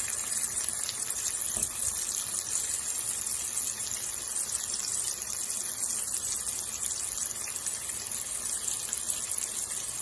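Boiled potato pieces frying in hot oil in a pan: a steady sizzle with many small crackles.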